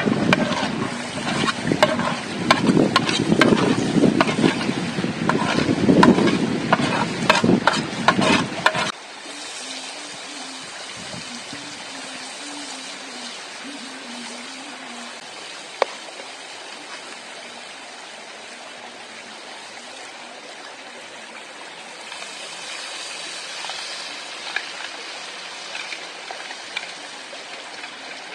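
About nine seconds of loud wind buffeting the microphone with clattering knocks, then an abrupt cut to a steady, quieter sizzle of food frying in a pan.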